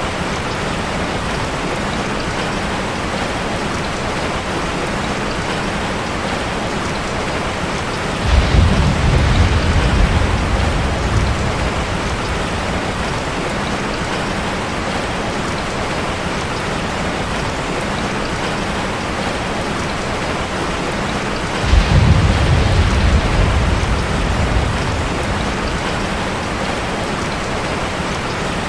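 Steady heavy rain drumming on a metal roof. A low roll of thunder comes in about eight seconds in and another about twenty-two seconds in, each fading away over a few seconds.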